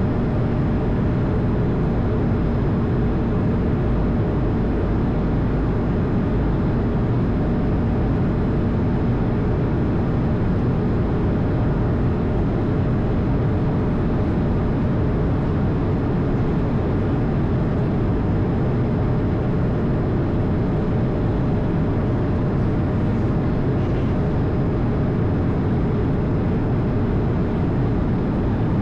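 Airbus A220 in flight, heard from inside: a steady roar of airflow and its Pratt & Whitney geared turbofan engines, with a faint steady hum in it.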